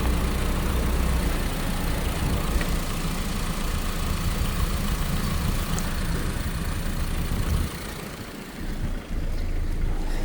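Honda R18A2 1.8-litre i-VTEC inline-four engine idling steadily during a running test. The sound falls away for about a second and a half near the end, then returns.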